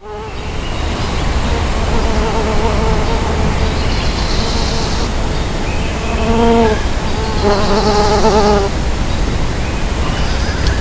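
Mason bees buzzing in flight, the buzz wavering in pitch and swelling as bees pass close, loudest from about six to nine seconds in.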